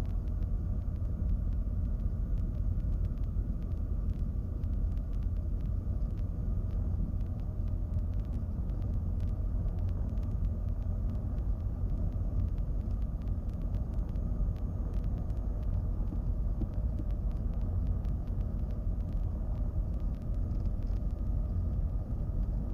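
Twin piston engines of a Cessna 310Q running at low power on the ground, a steady low rumble heard from inside the cabin.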